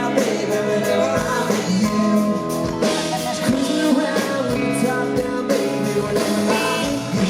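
Live country-rock band playing a song, with a drum kit keeping a steady beat under guitars and a singing voice.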